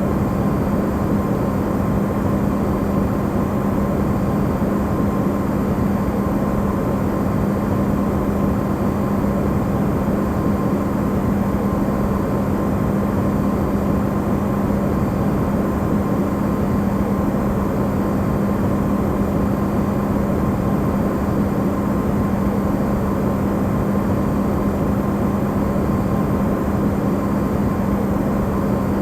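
Electrolux refrigerator running, recorded amplified: a steady drone made of a low hum with a fainter higher tone over a dense rushing noise, unchanging throughout.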